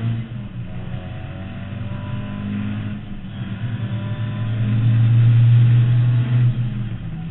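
Mk2 Ford Escort's 2.0-litre Pinto four-cylinder on 45 carburettors running hard on track, heard from inside the stripped cabin. The engine note dips briefly near the start and again about three seconds in, then builds to its loudest from about four and a half to six and a half seconds before falling away near the end.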